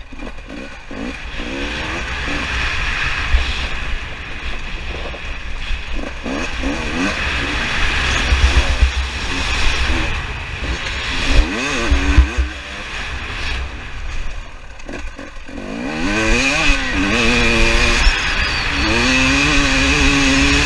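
Two-stroke 300 TPI dirt bike engine revving up and down again and again as it is ridden, its pitch rising and falling with each throttle change, over a steady low rumble. The revs climb longest and loudest near the end.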